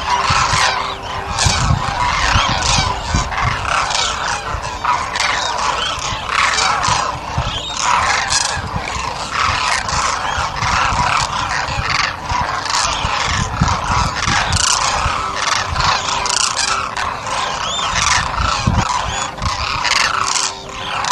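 A flock of birds calling, with many loud calls overlapping without pause.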